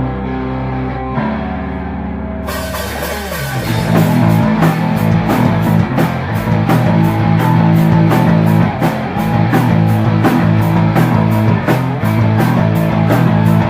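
Live rock band playing an instrumental intro. Electric guitar and bass hold sustained chords at first, then the drums and full band come in about two and a half seconds in, with a fast, steady beat.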